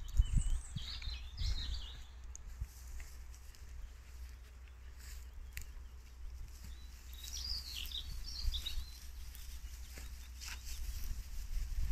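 Wild birds chirping in short bursts, once about a second in and again around seven to nine seconds, over a low steady rumble.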